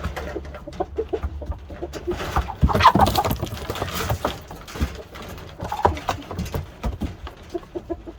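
Shamo game fowl clucking, with scattered knocks and scuffs. A louder, noisier stretch starts about two and a half seconds in and lasts about a second and a half.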